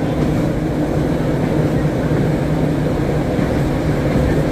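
Interurban trolley car (Philadelphia Suburban Transportation Co. car #76) running steadily along the track: a constant rumble of steel wheels on rail with a steady hum from the traction motors and gearing, enclosed in a long tunnel.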